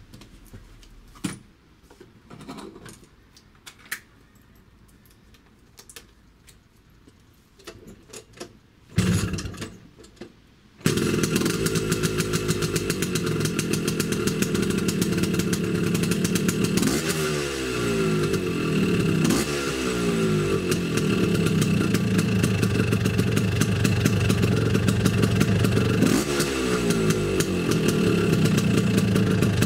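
A few knocks and clatter, then about eleven seconds in a tuned Vespa two-stroke engine with a box-type expansion exhaust starts and runs. It is revved three times, its pitch falling back after each blip.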